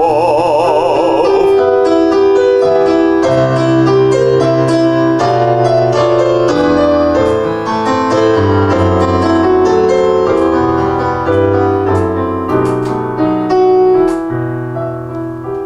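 A baritone voice holds the last sung word 'знов' with wide vibrato, then a piano plays an instrumental interlude of chords over a moving bass line.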